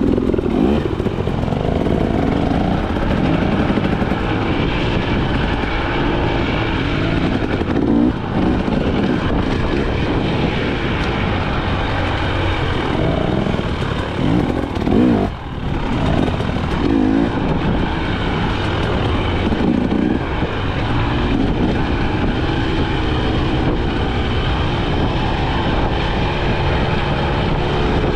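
KTM 300 XC-W two-stroke single-cylinder dirt bike engine being ridden on a trail, revving up and down over and over as the throttle is opened and closed, with a brief drop in throttle about halfway through.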